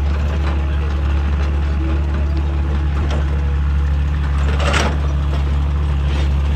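Hydraulic excavator's diesel engine running steadily with a deep drone, with two sharp knocks, about three seconds in and the louder one just under five seconds in.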